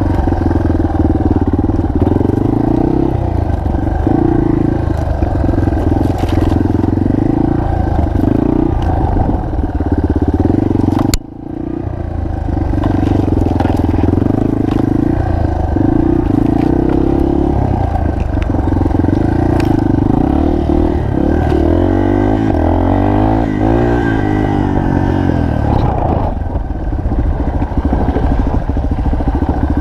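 Single-cylinder four-stroke enduro motorcycle engine running while ridden, its pitch rising and falling with the throttle. The sound breaks off sharply for a moment about a third of the way in, then returns.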